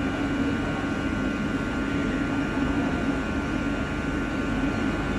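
Steady machine hum inside an EMU local-train coach standing at the platform before departure, with a few unchanging whining tones over a constant rush of noise.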